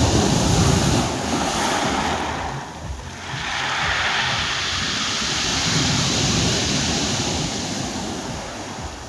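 Sea waves washing onto the shore: one wave breaks at the start and dies away around three seconds in, then a second, longer surge builds and fades.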